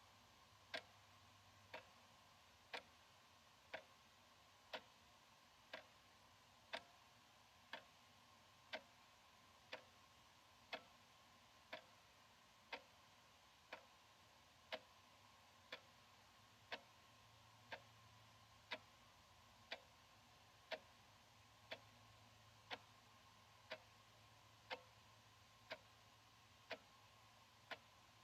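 Analog wall clock ticking steadily, about one tick a second, the ticks alternating slightly in strength like a tick-tock.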